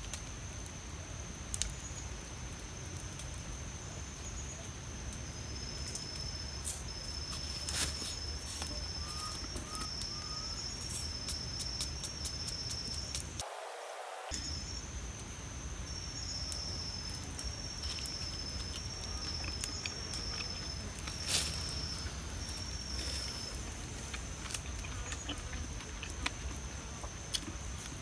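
Woodland ambience: a steady high-pitched call with broken high chirping over it, a few sharp clicks and a low rumble. The sound drops out briefly about halfway through.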